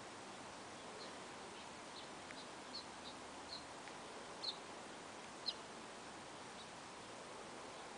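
A bird chirping faintly in the background: about ten short, high chirps, irregularly spaced, over a steady hiss. The loudest comes about two-thirds of the way in.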